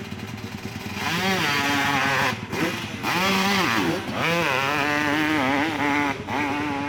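Hill-climb motorcycle engine revving hard, its pitch swinging up and down with the throttle, with brief dips where the revs are chopped off, louder from about a second in.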